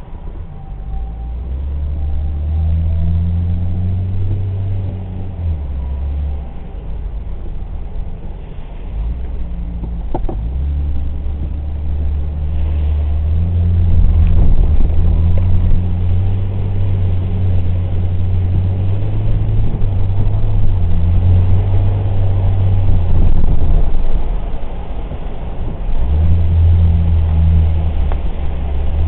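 Car engine being driven hard, its note stepping up and down again and again as it accelerates, shifts and eases off.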